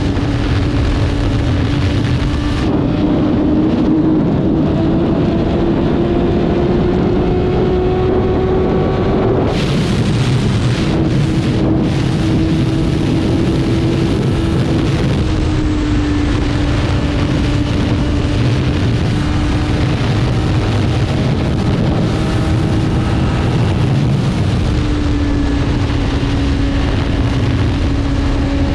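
BMW S1000RR's inline-four engine running under way, with wind rush. Its note climbs steadily for several seconds, drops sharply about nine and a half seconds in, then holds fairly level with small dips.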